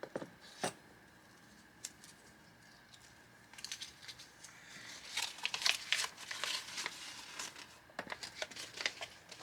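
Crinkling and rustling of paper and plastic packaging being handled, with small sharp clicks. A few faint taps at first, then steady crinkling from about a third of the way in.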